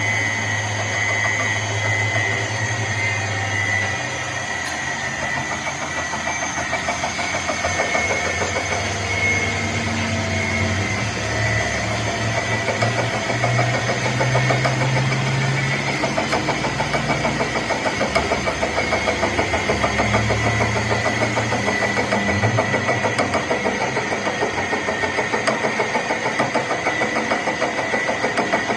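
Metal lathe running steadily: a steady mechanical whine with an even, fine rhythmic texture over a low hum that shifts in pitch several times.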